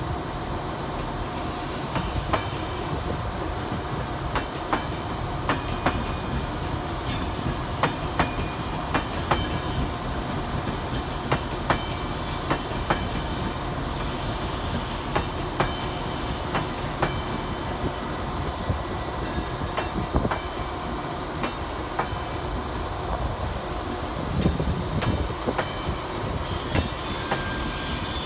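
Irish Rail passenger train rolling slowly over the station approach tracks, its wheels clicking over rail joints and points about once a second above a steady rumble. Near the end a high wheel squeal starts up.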